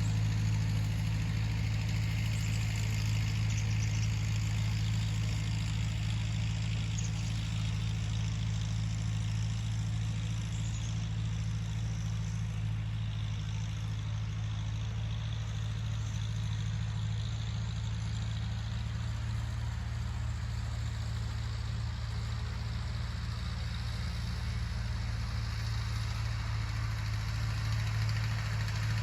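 Tractor engine running steadily, a constant low drone with no change in pitch.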